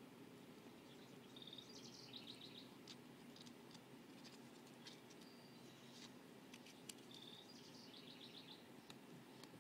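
A small songbird singing faintly twice, about six seconds apart, each time a short phrase: a brief steady note and then a quick run of about five notes. Faint scattered light clicks come in between.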